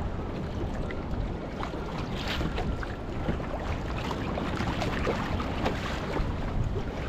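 Wind buffeting the microphone with a steady low rumble, while choppy sea water splashes and slaps around a small fishing craft in rough, sloppy conditions, making frequent short crackling splashes.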